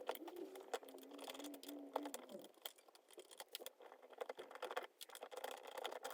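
Faint scattered clicks and light taps of small metal parts being handled as the spindle is taken out of a small home-built surface grinder, with a faint low hum for the first couple of seconds.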